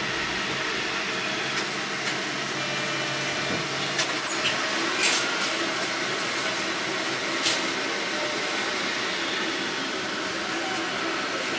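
Steady running hum inside a streetcar standing at a stop, with a short clatter and high squeak about four seconds in and a few sharp clicks after it.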